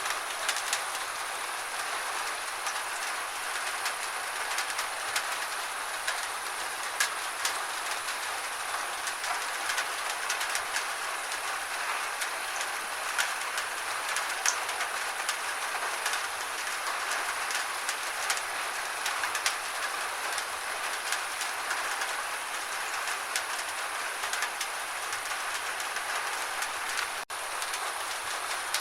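Steady gentle rain with many small, sharp drop ticks scattered through the hiss. It cuts out for an instant near the end.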